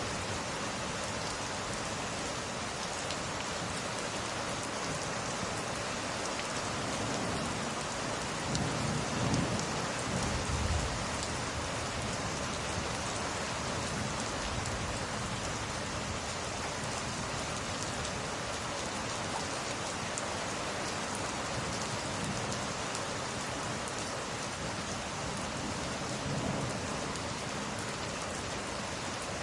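Steady heavy rain, with a low rumble of thunder swelling about a third of the way in and a smaller rumble near the end.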